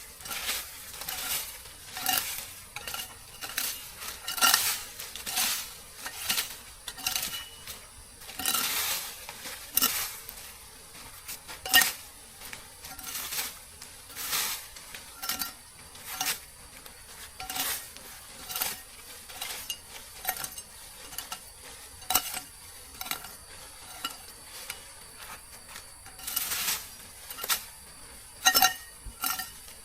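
A metal utensil scraping and clinking against metal cookware, about one stroke a second at an uneven pace, with a light sizzle beneath.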